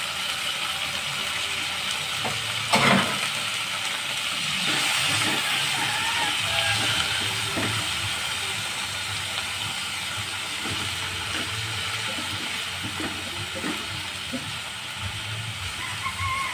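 Tomato wedges, onion and garlic frying in hot oil in a pan: a steady sizzle that swells for a few seconds near the middle, with a spatula scraping and tapping against the pan and one sharp knock about three seconds in.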